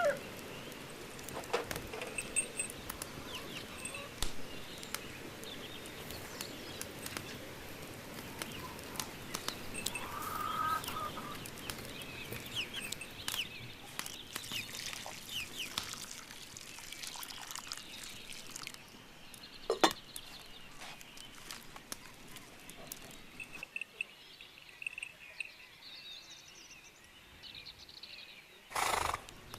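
Farmyard chickens clucking with small birds chirping, over scattered light clicks. There is a single sharp knock about two-thirds of the way through and a short burst of noise near the end.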